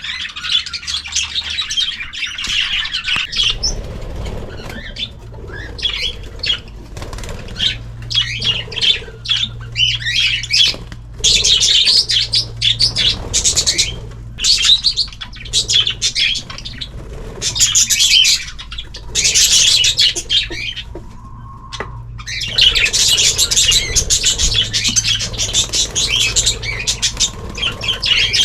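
A flock of cage birds (budgies, canaries and cockatiels) chirping and twittering together in busy bursts of a few seconds, with wings fluttering.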